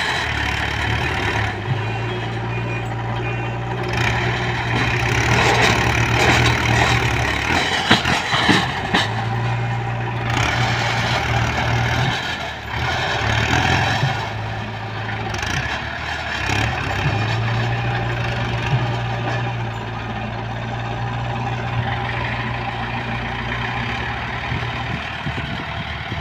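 Tractor diesel engine running under load, its low engine note steady but stepping up and down every few seconds as the engine speed changes.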